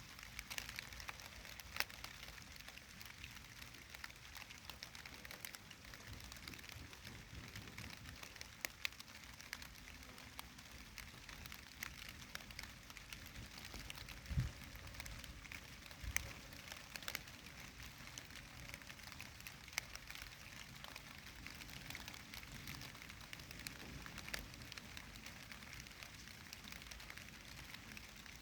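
Steady, faint rain hiss with many scattered sharp ticks of individual drops hitting a surface, and a single low thump about halfway through.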